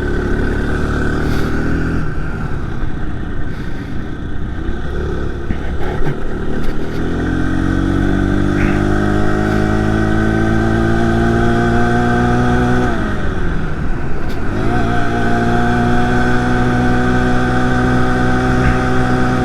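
The small 49cc four-stroke engine of a motorized bicycle is running under load up a hill, its revs climbing slowly. About two-thirds of the way through the revs dip sharply and pick straight back up, then hold steady.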